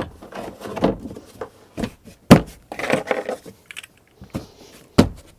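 Large cargo-area tray being slid back into its compartment, scraping and clattering, with several sharp knocks as it seats; the loudest comes about two seconds in and another near the end.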